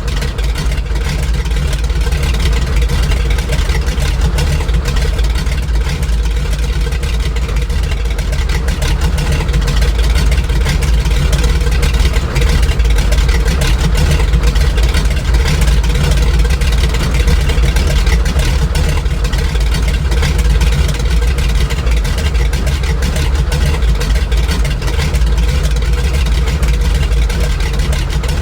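Grumman Goose's Pratt & Whitney R-985 radial engines running steadily, a deep, even drone.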